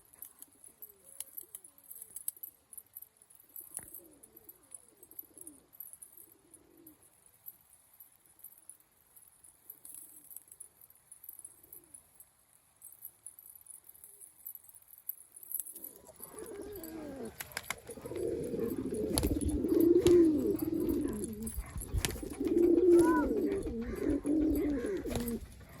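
Domestic roller pigeons cooing: faint, low warbling coos at first, then much louder and busier cooing from about two-thirds of the way through, with a few sharp clicks.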